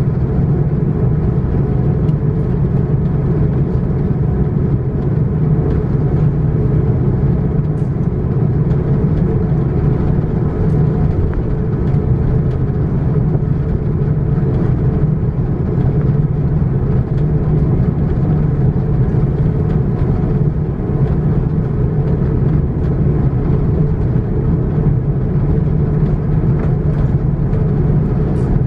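Steady low drone of an Airbus A330-941's Rolls-Royce Trent 7000 engines heard from inside the passenger cabin, with a few faint ticks and rattles over it.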